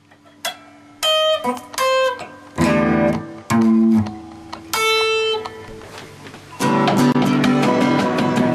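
Guitar solo: a handful of separate plucked notes with pauses between them, then, about two-thirds of the way in, full continuous strumming.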